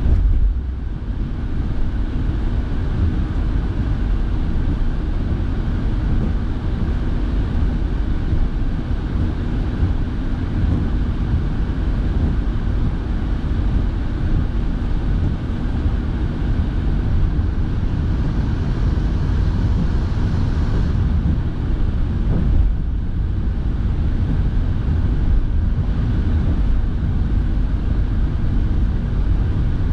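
Car driving on wet roads, heard from inside: a steady low road and engine rumble with a hiss over it. The higher part of the hiss drops away about two-thirds of the way through.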